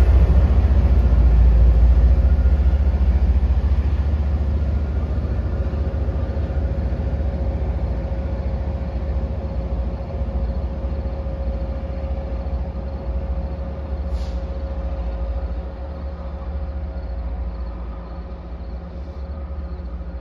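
Diesel-hauled MBTA commuter rail train pulling away, its low rumble and wheel noise fading steadily as it recedes, with a steady hum held throughout. A single short click about two-thirds of the way through.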